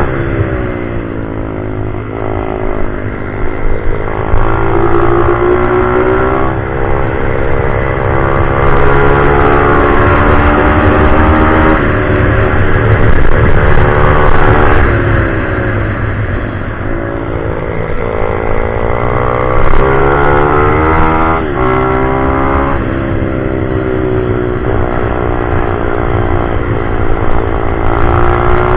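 Pit bike's single-cylinder engine running hard around a track, its pitch climbing and falling back over and over as it revs up and drops off, with several sudden falls in revs.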